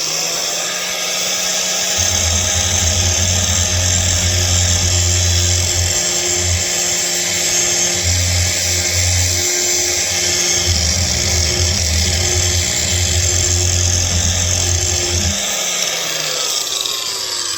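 Handheld angle grinder with a 24-grit disc, started and run at speed in a steady high whine, with low rumbles coming and going as the disc is worked. Near the end it winds down with falling pitch.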